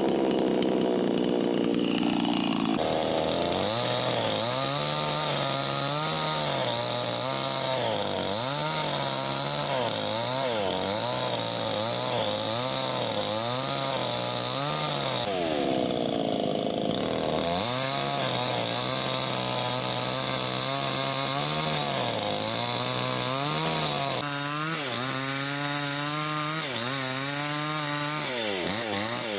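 Small engine revving up and down over and over, its pitch rising and falling about every second or two.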